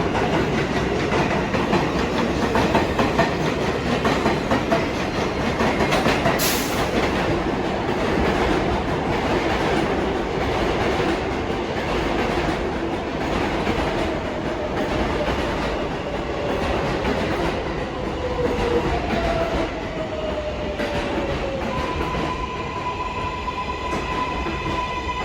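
R188 subway train running into the station with wheels clattering over the rail joints. Its motor whine falls in pitch as it brakes from about fourteen seconds in, and a steady high tone comes in near the end as it stands.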